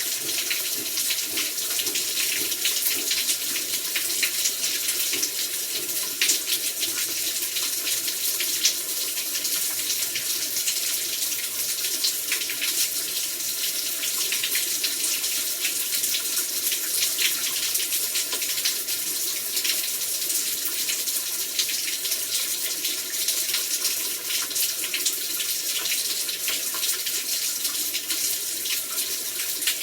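Heavy rain falling steadily, a dense hiss of drops with many small individual ticks in it.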